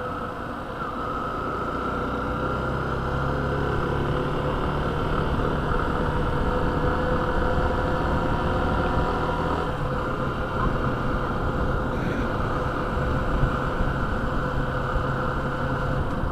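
Yamaha motorcycle engine running on the move, with steady wind and road noise; the engine note shifts a few times.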